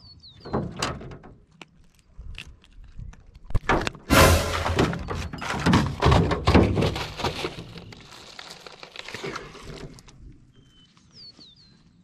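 Gear being handled in a small fishing boat: knocks and thunks against the hull, then a longer stretch of clattering and rustling, loudest from about four seconds in and dying away about ten seconds in.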